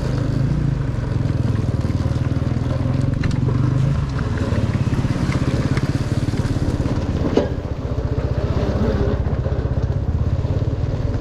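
Dirt bike engine running steadily on a trail ride, with a single sharp knock about seven seconds in.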